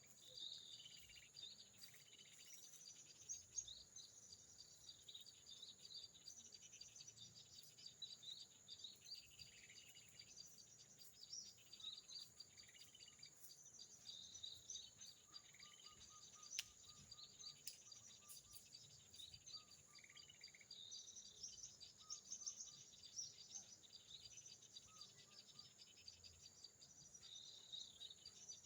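Faint, scattered high chirps of small birds over a steady high-pitched insect drone, with a quick run of short, lower notes about halfway through.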